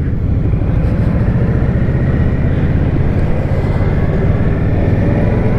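2022 Indian Scout Bobber's liquid-cooled V-twin engine running steadily under way, heard from the rider's seat.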